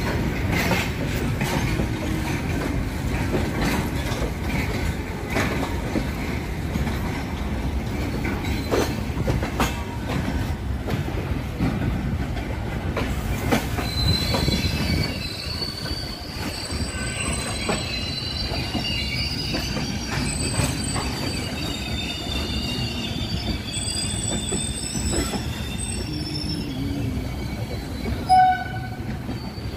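Indian Railways trains running side by side: a steady rumble and rattle of wheels and covered goods wagons, with knocks over rail joints in the first half. From about halfway, thin high-pitched wheel squeal rings over the rumble, and a short loud tone sounds near the end.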